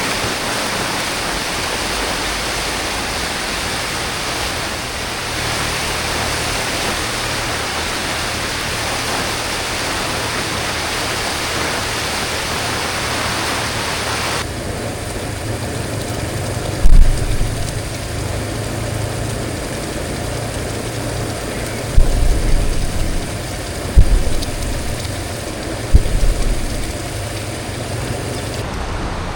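Steady rush of water. It cuts off abruptly about halfway through to a lower, vehicle-like rumble broken by four heavy low thumps.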